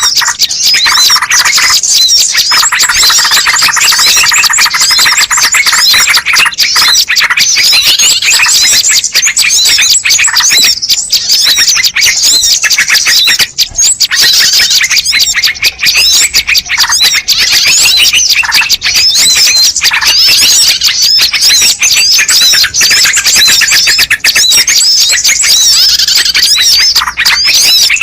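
Bird-lure recording of many small birds chirping at once: a dense, fast stream of high, quick chirps and twitters.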